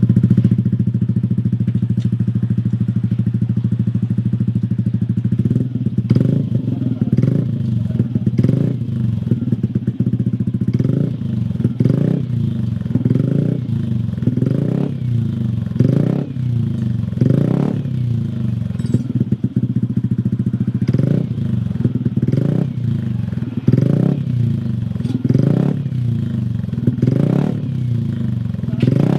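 Yamaha Aerox scooter's single-cylinder engine running through an aftermarket Shijiro exhaust. It idles steadily for about five seconds, then is blipped with short throttle stabs about once a second.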